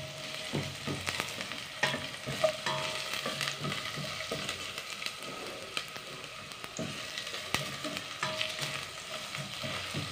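Sliced onion and garlic sizzling in oil in a stainless steel pot, with the scrape and tap of a spatula stirring them every so often.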